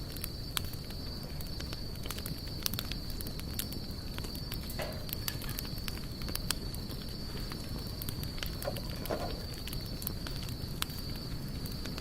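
Wood campfire burning, with frequent irregular crackles and pops over a steady low rush of flame. A steady high-pitched whine sits beneath it throughout.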